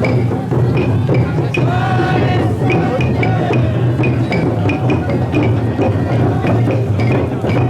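Festival drum float's taiko beaten in a steady rhythm of sharp strokes, two to three a second, over a constant heavy low rumble. The bearers' chanting voices rise in now and then.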